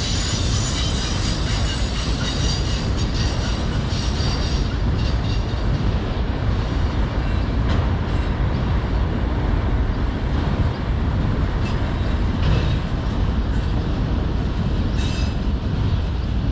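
Freight train of autorack cars rolling past on steel rails: a steady rumble of wheels, with a high wheel squeal over the first few seconds and a few sharp clacks later on.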